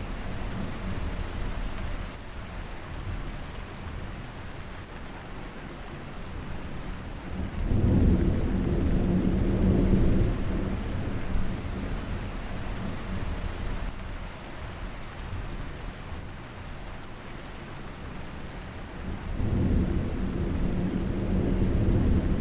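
Steady rain during a thunderstorm, with low rolling thunder swelling up twice: once about eight seconds in and again near the end.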